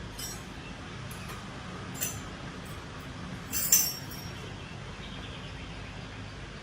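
A few short, sharp clinks, as of hard objects knocking together, the loudest about three and a half seconds in, over a steady low hum.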